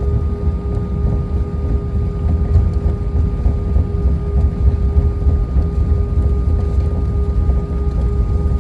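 Cabin noise inside an Airbus A319 taxiing after landing: a steady low rumble with a constant hum, from the idling engines, air system and rolling gear.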